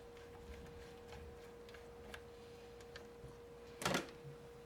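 Faint metallic clicks of a screwdriver backing out the screw that holds a typewriter side panel, then one louder short clatter near the end as the screw or panel comes loose.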